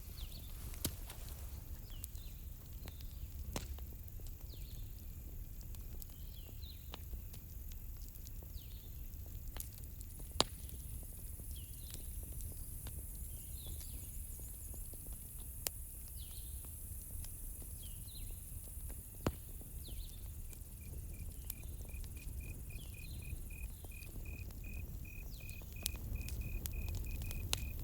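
Campfire crackling: scattered sharp pops over a low steady rumble, with short bird chirps through most of it. About two-thirds of the way in a cricket starts chirping in an even pulse, about four a second.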